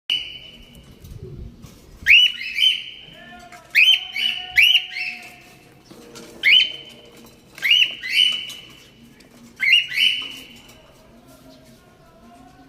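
Small birds chirping over and over: short, high calls with a sharp start, coming every second or two, often in twos or threes. These are the calls of hungry birds begging for food.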